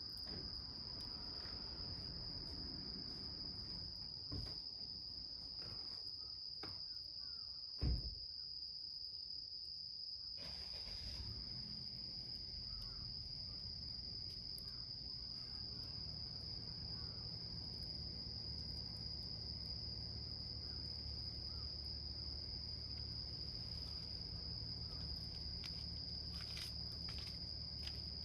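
Insects, likely crickets, trilling steadily on one high pitch over a low rumble, with a few faint clicks and a single short thump about eight seconds in.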